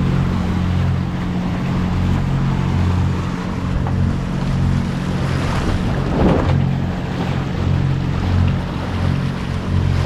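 A catamaran under way: the steady low drone of its engine under wind on the microphone and rushing water, with a louder surge of water about six seconds in.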